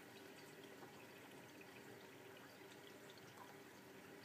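Faint water trickling and dripping as a Miele W562 washing machine fills at the start of its main wash.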